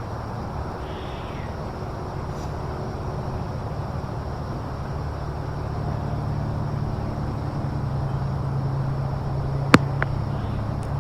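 A steady low engine drone that grows slightly louder, with two sharp clicks about half a second apart near the end.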